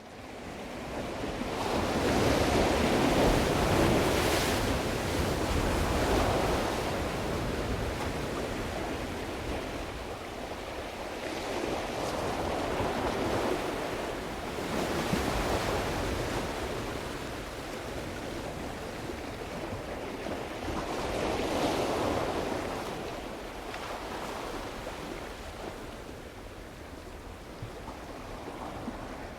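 Ocean surf: waves washing in and drawing back in slow swells, fading in at the start, with the biggest surges a few seconds in, about halfway through and about two-thirds of the way through.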